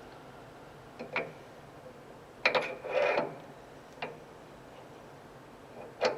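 Scattered metallic clicks and short clatters of metal tools or parts being handled, a cluster of them around the middle; no lathe spindle is heard running.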